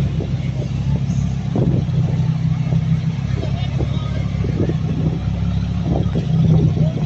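A car engine running steadily with a low, even hum, and scattered voices in the background.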